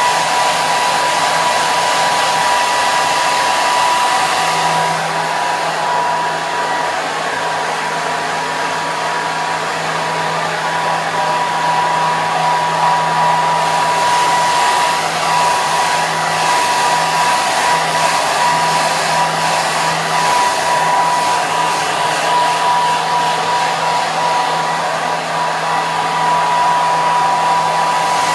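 Hair dryer running continuously: a steady rush of air with a high motor whine held at one pitch and a faint low hum beneath.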